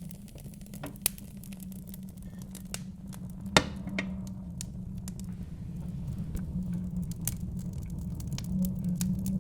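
Wood fire crackling with scattered sharp pops, one louder pop about three and a half seconds in, over a steady low rumble of wind.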